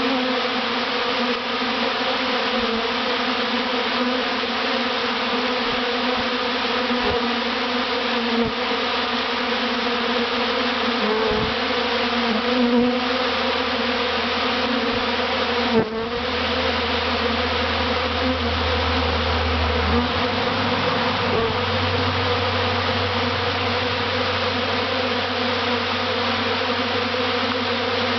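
A large swarm of honey bees buzzing at close range: a dense, steady hum of many bees, with a brief knock about sixteen seconds in.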